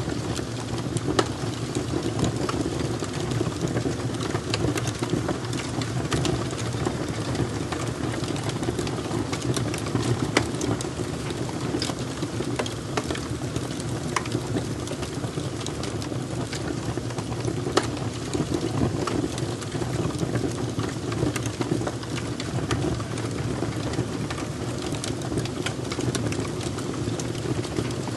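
Fire crackling: a steady low rumble of burning with many small sharp pops and snaps scattered irregularly throughout.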